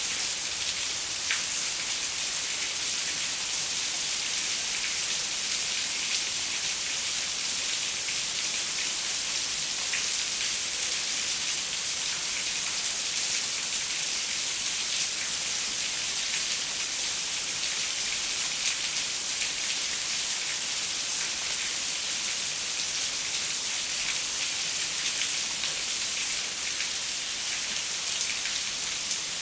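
Steady rain falling on a window pane: an even hiss with many small drop taps scattered through it.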